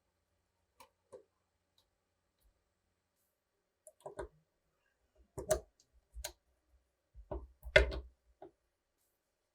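Irregular sharp clicks and knocks from small parts being handled, some with a dull thud: two faint ones about a second in, then a louder cluster from about four seconds, the loudest near the end.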